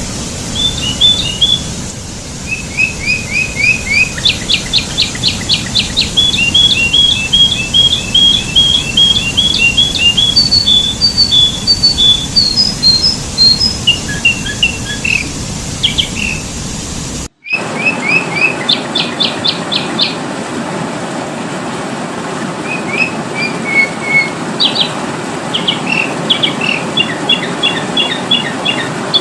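Sooty-headed bulbul (kutilang) calling in rapid runs of short, bright chirps and quick repeated notes, a lure call used to draw in wild bulbuls. Just over halfway through the sound cuts out for a moment at a splice, and afterwards a faint steady hum lies under the calls.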